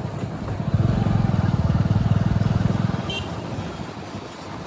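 Heavy diesel engine running, revving up about a second in, holding for about two seconds, then easing back.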